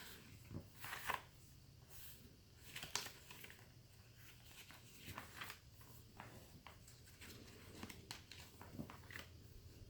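Faint, scattered rustling and light taps of paper pages of a handmade junk journal being handled.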